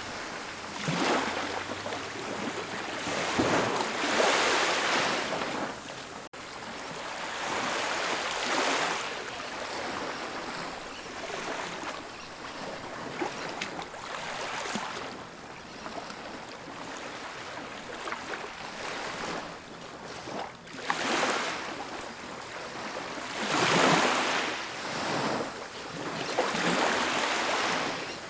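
Ocean surf on a beach: waves break and wash in with a hiss, swelling and falling away every few seconds.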